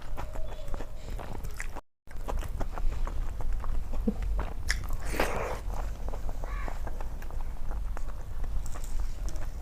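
A person chewing and biting food close to the microphone: wet mouth clicks and small crunches over a low steady hum. The sound cuts out briefly about two seconds in, and there is a louder crunch or slurp around five seconds.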